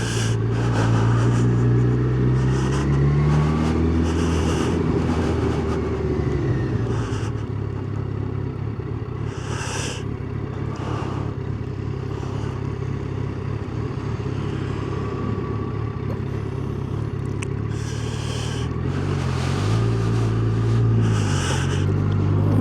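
Yamaha FZ1's inline-four engine running under the rider in slow town traffic. The engine note rises in the first few seconds, settles to a lower, steady note through the middle, then rises again near the end, with short rushes of noise along the way.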